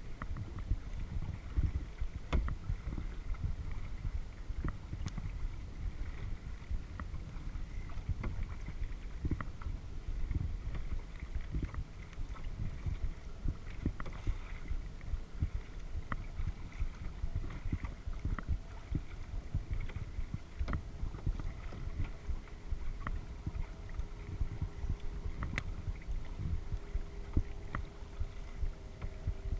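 Kayak paddling on a lake: water sounds and a steady low rumble against the hull and microphone, with scattered small clicks and knocks. A faint steady hum comes in during the second half.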